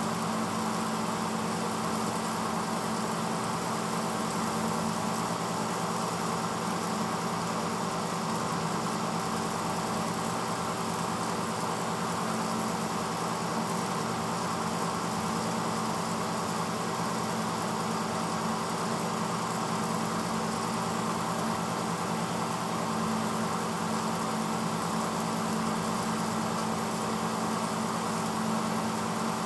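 1986 Hotpoint Potwasher dishwasher running mid-cycle: a steady, unchanging hum of its motor over an even rushing noise.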